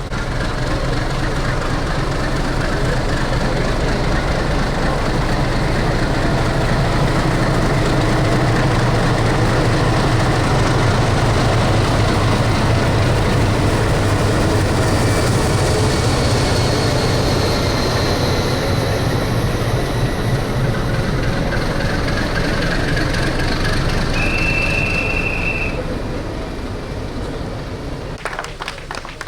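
Railway locomotive running with a steady low rumble, giving one short high whistle near the end, then fading away as it moves off.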